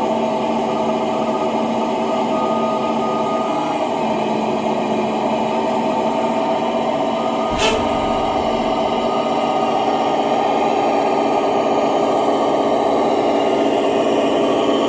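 Motor running steadily at an even pitch, with one sharp click about halfway through.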